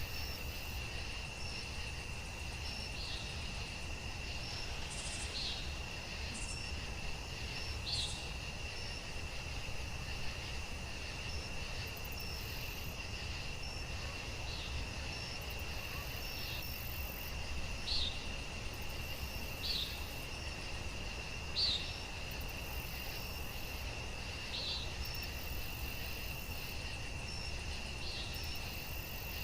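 Night-time cricket ambience: a steady high trill with short, higher chirps every second or two over a low, even rumble.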